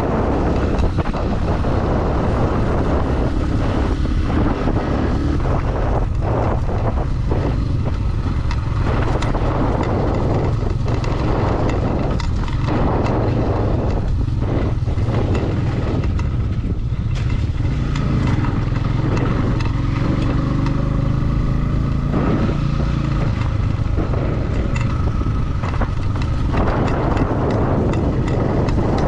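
Motorcycle engine running steadily under way on a dirt road, with rushing noise and frequent short knocks and rattles from the rough surface.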